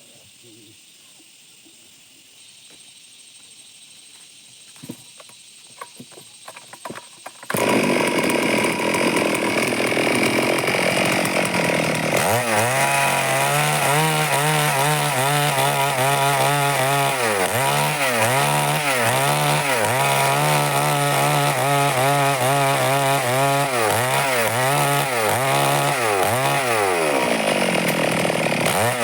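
A few light clicks, then a Stihl chainsaw comes on abruptly about a quarter of the way in and runs loud. Its engine pitch rises and falls over and over, about once a second, as it cuts through wood.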